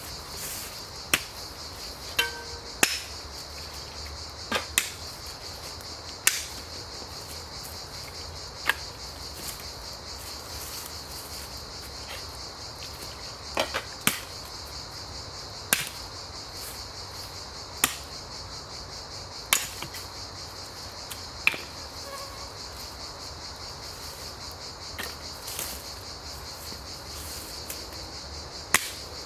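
Steady high chirring of crickets or similar insects, with sharp clicks or snaps at irregular intervals, roughly one every one to two seconds.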